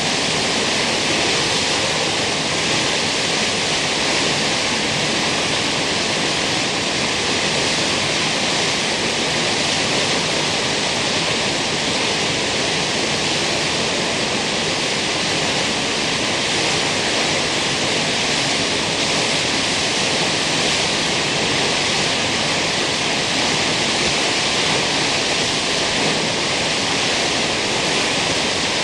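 Kegon Falls' waterfall: a steady, even rush of falling water that does not change.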